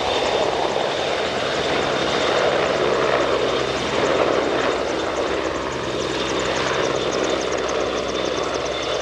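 CH-149 Cormorant search-and-rescue helicopter, powered by three General Electric T700-series turboshaft engines, running steadily: a heavy rotor drone with a high, steady turbine whine. From about halfway through, a fast, regular high-pitched chopping joins in.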